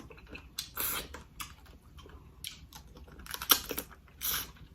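Close-miked eating sounds: a person chewing a mouthful of seafood and rice, with irregular wet smacks and crisp clicks, a sharper one about three and a half seconds in.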